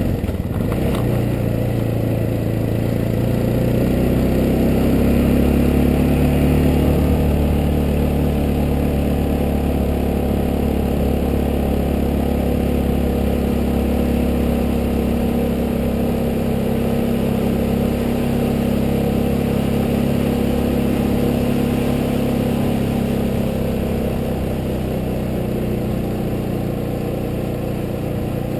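Yamaha Ténéré motorcycle engine running steadily under way; it grows louder a few seconds in as the bike picks up speed, then holds an even pace.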